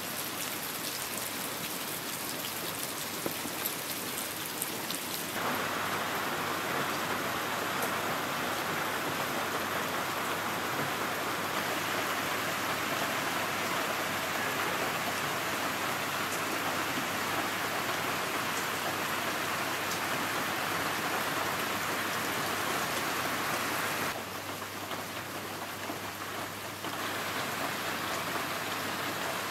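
Heavy rain falling on the surface of a loch: a steady hiss of countless drops hitting the water. It grows louder about five seconds in and drops back for a few seconds near the end.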